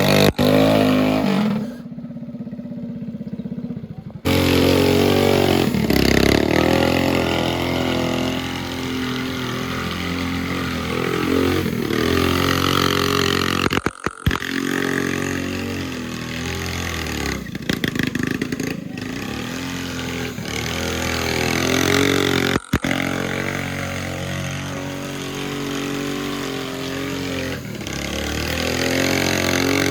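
Small mini bike engine running and revving up and down repeatedly, with several abrupt cuts where the sound jumps.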